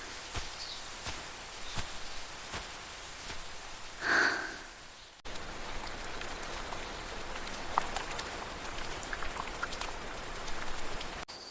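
Soft, even ambient hiss with scattered small ticks and clicks. A brighter sound with a ring to it comes about four seconds in, and the ambience changes abruptly twice.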